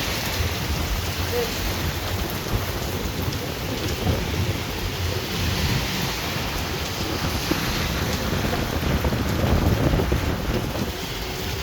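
Heavy rain pouring down steadily during a severe thunderstorm, with a low rumble underneath.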